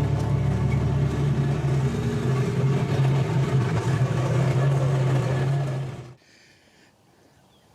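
Engine running steadily with a low, even hum, cutting off abruptly about six seconds in.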